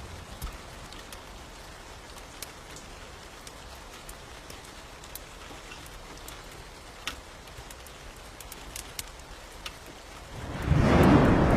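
Steady rain with scattered sharp ticks of drops, then a little over ten seconds in a loud rolling thunderclap breaks in, much louder than the rain.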